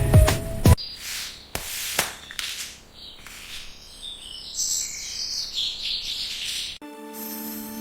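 Birds chirping in short high calls, mixed with a few knocks and rustles. Background music cuts off under a second in and comes back near the end.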